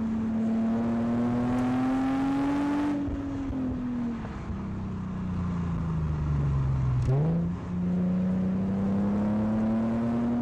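Nissan 370Z's 3.7-litre V6 heard from inside the cabin at speed. The engine note climbs under throttle, then falls away off the throttle for a few seconds. About seven seconds in it jumps sharply up on a downshift, then climbs steadily again as the car accelerates.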